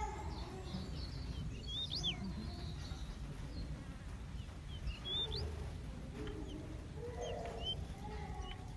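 Small aviary birds chirping: scattered short, high chirps that sweep quickly in pitch, with a lower, fuller call near the end, over a steady low rumble.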